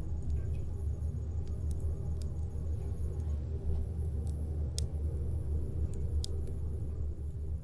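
Campfire burning, with sparse sharp crackles and pops over a steady low rumble.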